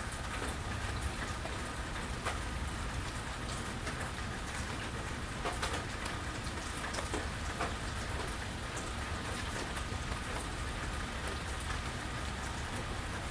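Steady rain falling, with many sharp close drips and splashes scattered through it and a steady low rumble underneath.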